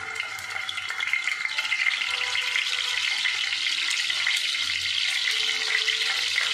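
Steamed beef balls sizzling and crackling in hot oil in a frying pan as they are added one at a time; the sizzle grows louder about a second in.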